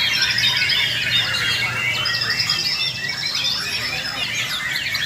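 Many white-rumped shamas (murai batu) singing at once, as at a songbird contest: a dense mix of overlapping whistles, trills and fast repeated notes.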